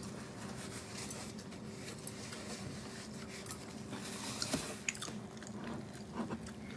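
Faint chewing of stir-fried gopchang, with a few small clicks around the middle and near the end, over a steady low hum.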